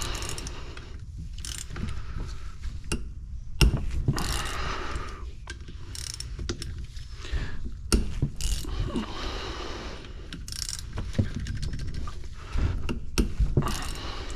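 Irregular clicks, clatter and scraping of hand tools and metal parts as a pressure washer pump is taken apart.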